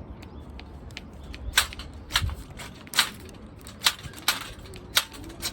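A series of about seven sharp clicks or snaps, irregularly spaced a half-second to a second apart, starting about a second and a half in.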